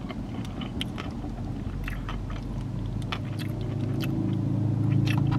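Close-up chewing with small crinkles of a paper burger wrapper. A vehicle engine hum comes in and grows steadily louder over the second half.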